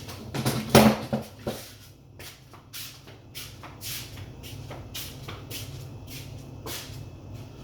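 Scattered knocks and clicks of someone moving about and handling things, loudest in the first second and a half, over a steady low hum.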